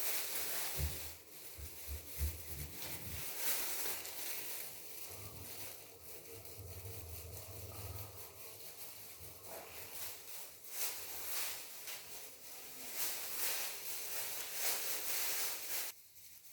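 Rustling and handling noises, with a few soft thumps in the first few seconds.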